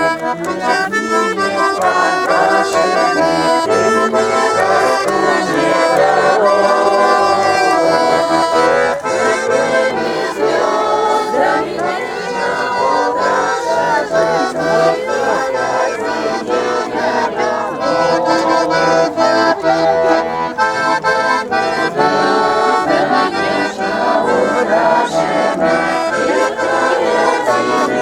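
Accordion music: a continuous tune played with chords, several notes sounding together throughout.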